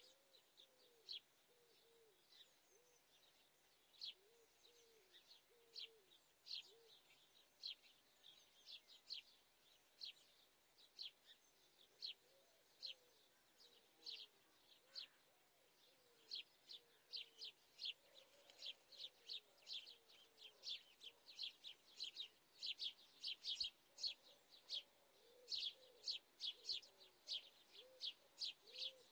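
Faint, repeated chirping of small birds: short, sharp chirps, spaced out at first and coming much more quickly from about halfway through. Fainter, lower calls run underneath.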